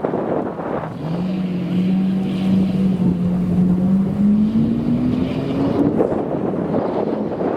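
Supercar engine accelerating, its note rising steadily for several seconds before fading, over wind noise on the microphone.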